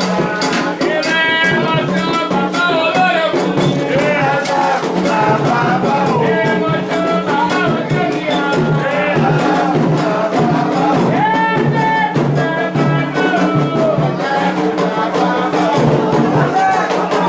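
Voices singing a Candomblé chant over continuous hand drumming and shaken rattles.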